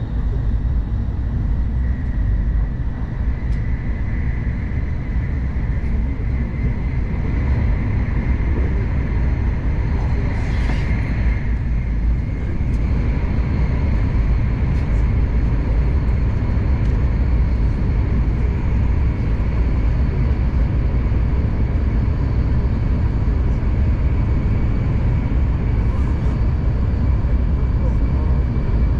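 Steady low running rumble of an N700S Shinkansen train at speed, heard inside the passenger cabin, with faint steady whining tones over it. A brief rushing hiss comes about ten seconds in.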